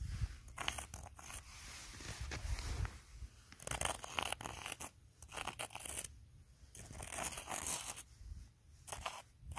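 Footsteps crunching and squeaking in snow at a walking pace, each step a separate crunch, roughly one a second.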